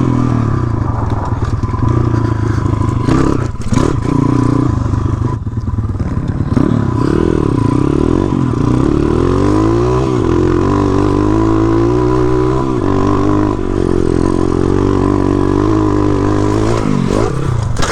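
Pit bike engine running on a rough trail, its pitch rising and falling as the throttle comes on and off, with a few clattering knocks from the bike over rocks about three to four seconds in.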